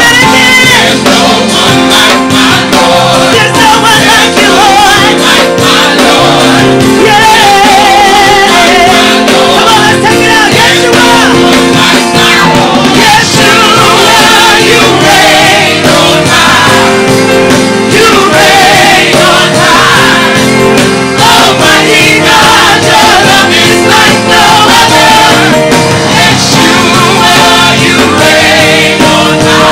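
Live gospel praise band playing loudly without a break, with voices singing long, wavering melodic lines over it.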